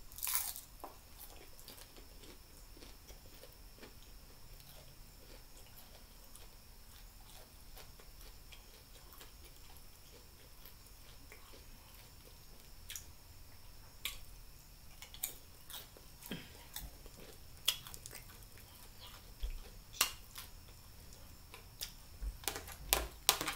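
A person eating a taco: quiet chewing with scattered short crunches and clicks, more frequent in the second half.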